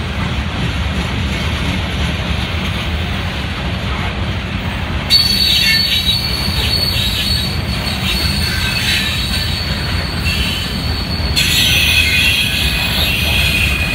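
Freight cars of a long mixed freight train rolling past with a steady rumble of wheels on rail. About five seconds in, a high, steady squeal from the wheels sets in and grows louder near the end.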